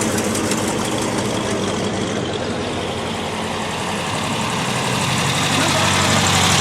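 A car engine idling steadily, growing a little louder near the end.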